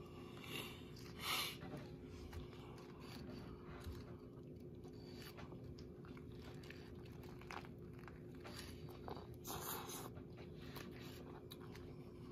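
A person chewing a bite of a turkey sub on a sub roll close to the microphone, with a few louder bites about a second in and near ten seconds. A steady faint hum runs underneath.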